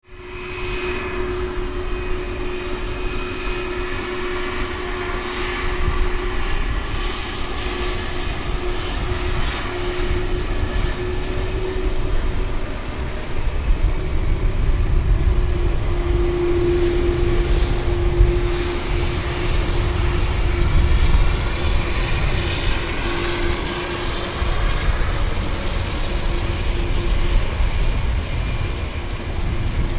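Airliner engines running loud and steady: a deep rumble under a steady hum, with faint whines that shift in pitch higher up.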